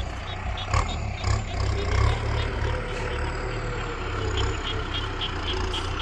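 Kubota M6240 tractor's diesel engine running steadily, with a few sharp clicks in the first seconds.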